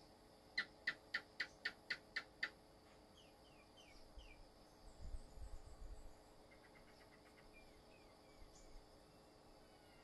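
Birds calling: a run of eight sharp, evenly spaced notes at about four a second, followed by a few short down-slurred notes and later a quick trill. A soft low rumble comes in around the middle.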